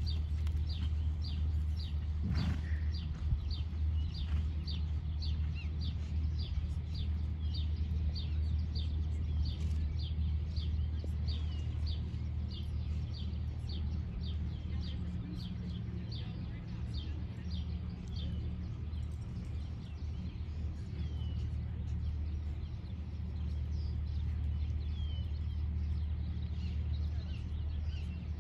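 A bird calling over and over, short falling chirps about twice a second, over a steady low rumble.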